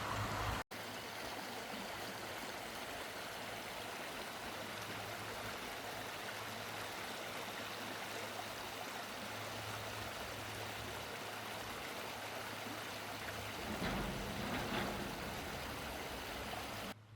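Creek water running steadily, briefly a little louder about fourteen seconds in.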